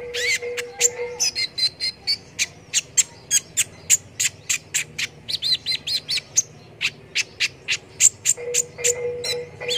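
Kolibri ninja (a small sunbird) calling rapidly: a fast string of sharp, high chip notes, about four a second, broken by short warbling twitters. A faint steady low whistle is heard near the start and again near the end.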